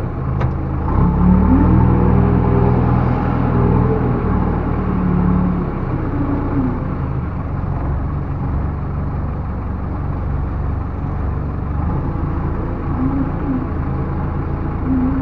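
Backhoe loader's diesel engine running, revving up about a second in and holding high until about five seconds in, then settling back to a lower steady run.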